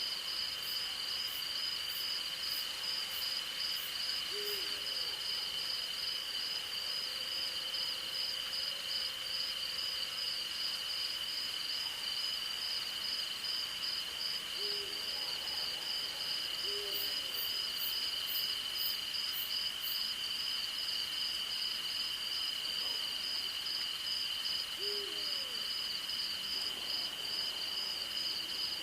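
Night chorus of crickets and other insects: one steady high trill under a faster, rapidly pulsing chirring. Over it an owl gives a short low hoot five times, spaced several seconds apart, and twice there is a quick run of faint high ticks.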